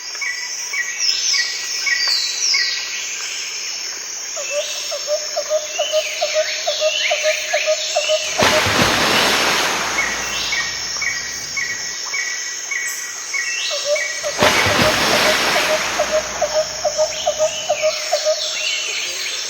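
Birds chirping and calling with a rapid insect-like trill, repeating in a loop, broken twice by long swells of rushing noise, about halfway and three-quarters of the way through.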